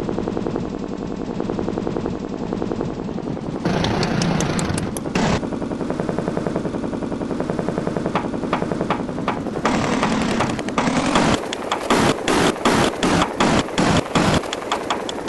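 Motorcycle engine running with uneven revving. In the second half it breaks into rapid bursts of sharp cracking pops, like machine-gun fire.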